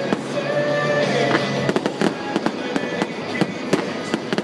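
Fireworks display: a dense, irregular run of sharp pops and bangs from bursting aerial shells and crackling comets.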